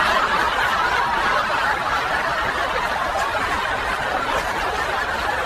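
Several people laughing together in a steady, dense wash of laughter.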